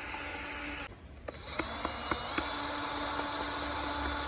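Power drill running to undo screws on the quad bike's body. It stops just under a second in, starts again about half a second later and runs steadily, with a few sharp ticks.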